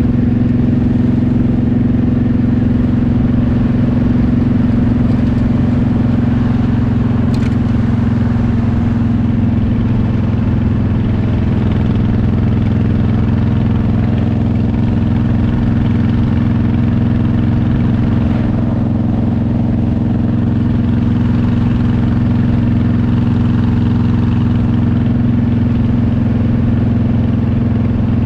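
Motorcycle engine running steadily at cruising speed, its note shifting slightly about a third of the way in.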